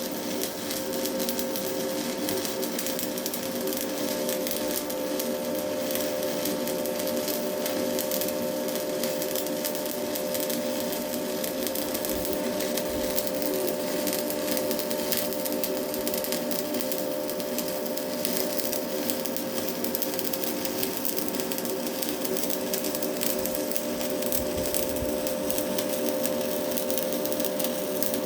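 Stick welding with a Hilco electrode on box iron: the arc's steady crackle, with a constant hum underneath, while a weld is run along a corner joint.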